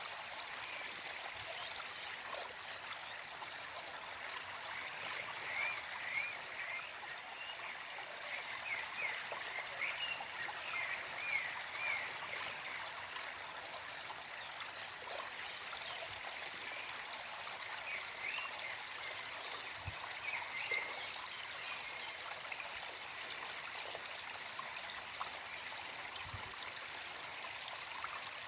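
Small forest stream running steadily, with bird song of quick repeated chirps coming and going over it several times.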